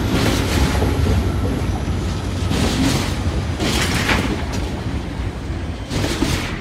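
Empty freight wagons rolling past: a steady low rumble with bursts of clatter as the wheelsets cross rail joints, the level slowly dropping as the end of the train goes by.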